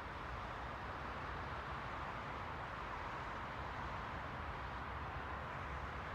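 Steady white noise: an even, unchanging hiss, strongest in the middle range, with a faint low rumble under it.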